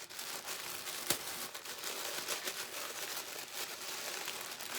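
Paper wrapping crinkling and being torn open by hand, a continuous crackly rustling with a sharp snap about a second in.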